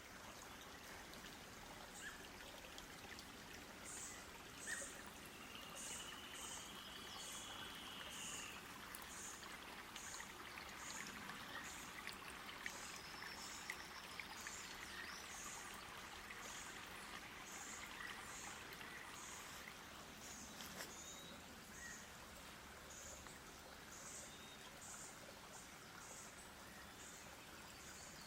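Birds calling: a thin, very high note repeated about once a second, with a few brief whistles, one of them a rising-and-falling glide a few seconds in, over a faint steady background hiss.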